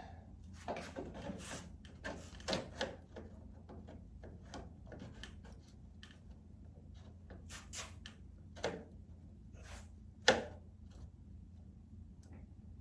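Handling noises from a model aircraft's cowl being test-fitted over the motor: scattered rubbing and scraping strokes with light knocks, and one sharper knock about ten seconds in.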